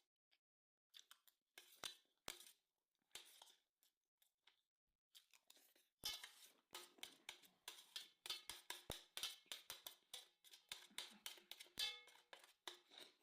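Quiet eating sounds at close range: a run of small clicks and crackles of chewing and handling food, sparse at first and coming thick and fast from about halfway.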